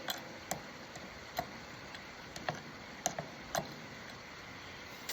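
Hands-on work on a lawn mower: about ten short, sharp clicks and taps at uneven spacing, over a faint steady hiss.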